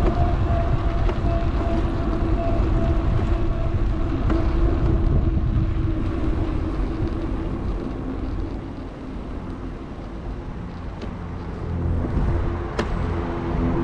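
Wind buffeting a GoPro microphone and tyre rumble from a moving electric bike. A steady hum fades out about halfway through, and there is a single sharp click near the end.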